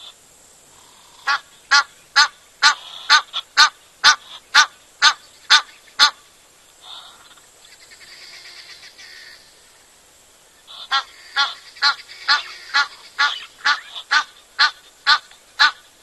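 A bird calling a long series of loud, evenly spaced harsh notes, about two a second, in two bouts: one for about five seconds, then after a short pause another of about a dozen calls.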